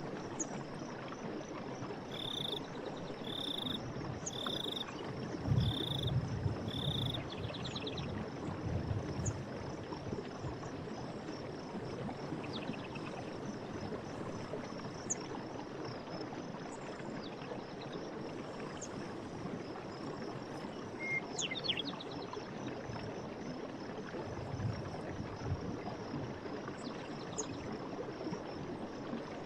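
Forest stream running steadily under a constant high insect trill. Near the start, a short call repeats five times about a second apart, and scattered bird chirps follow later.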